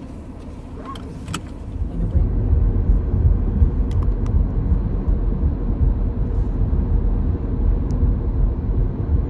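Car pulling away and driving, heard from inside the cabin: a low engine and road rumble that swells about two seconds in as the car gets under way, then holds steady. A few light clicks come and go.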